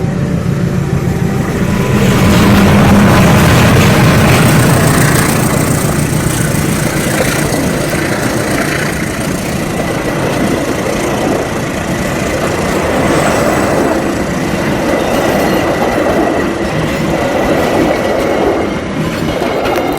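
Train passing close by: the rumble of the train and its wheels on the rails, swelling about two seconds in and staying loud, with a faint steady high whine through the middle.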